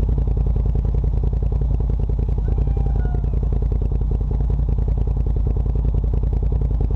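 Off-road vehicle engine running steadily at a constant speed, its rapid firing pulses heard loud and close, with rattling from the vehicle.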